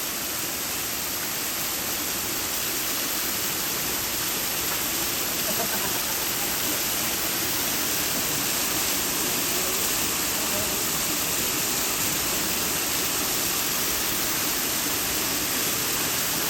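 A waterfall's water rushing steadily, an unbroken roar of falling and splashing water.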